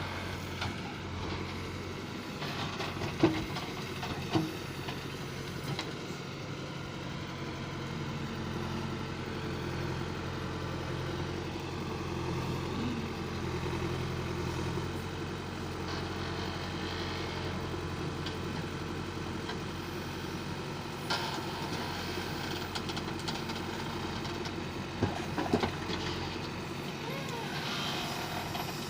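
Diesel engines of a JCB 3DX backhoe loader and a Mahindra tractor running steadily at a mud-loading site, with a few sharp knocks, the loudest about three seconds in.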